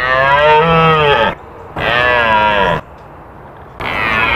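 Deer calling: three drawn-out, pitched calls of about a second each, each rising and then falling slightly in pitch, with short pauses between them.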